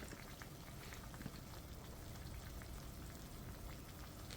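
Hot-pot stew simmering in its pot, a faint steady bubbling with small scattered pops.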